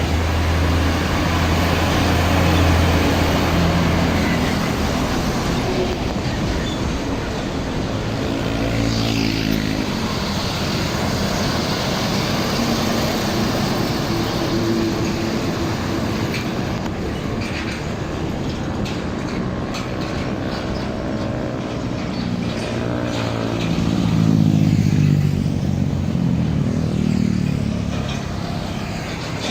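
Road traffic: trucks driving past with their engines running, one pass swelling and fading about nine seconds in and a louder one about twenty-five seconds in.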